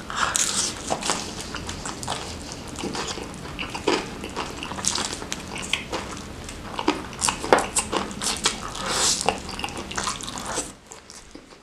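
Close-miked eating sounds: wet chewing and smacking on a bite of crispy fried chicken skin coated in chilli sambal, full of sharp mouth clicks, stopping shortly before the end.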